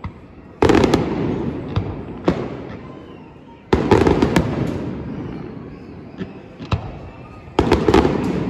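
Fireworks display: three volleys of aerial shells bursting, about three seconds apart, each a cluster of sharp bangs followed by a low rumbling echo that slowly fades.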